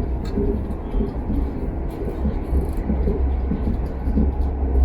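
Train running at speed, heard from on board: a steady low rumble of wheels on track, with a few faint light clicks.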